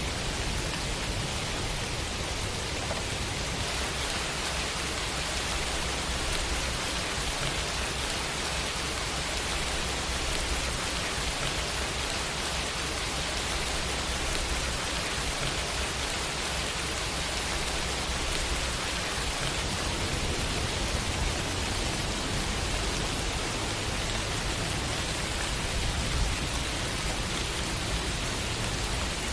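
Steady heavy rain falling on hard surfaces, an even hiss with a low rumble underneath.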